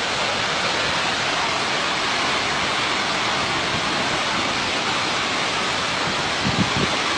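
Skógafoss waterfall falling, a loud, steady, dense rush of water noise. A couple of brief low bumps sound near the end.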